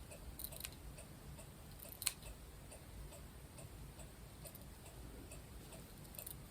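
Scissors cutting a circle out of tulle: a few faint snips and light clicks, the loudest about two seconds in, over a quiet room.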